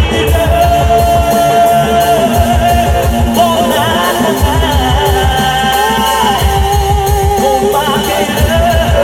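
Live band playing Bollywood music through a PA: a steady drum and bass beat under a long, held melody line that wavers and bends.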